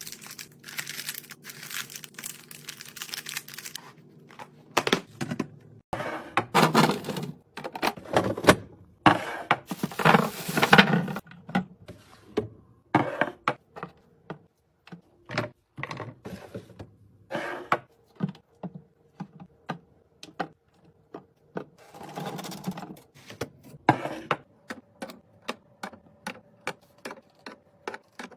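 Fridge restocking: many sharp clicks and knocks of containers and items being handled and set down, with several longer noisy stretches in between. A steady low hum underlies the first few seconds.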